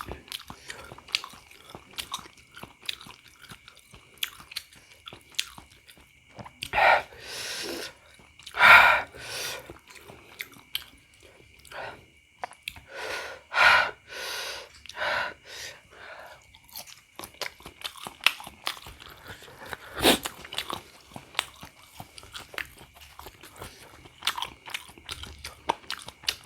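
Close-miked chewing of bouncy beef meatballs (pentol bakso), many small wet mouth clicks and squelches. In the middle stretch there are several louder, longer hissing bursts of noise. A faint steady high tone runs underneath.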